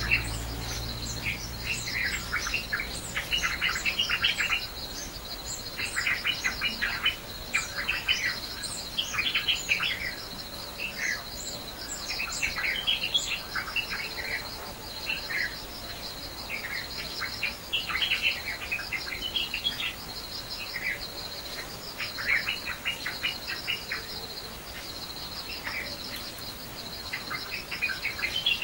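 Birds chirping, with runs of short calls coming again and again over a steady, high trill.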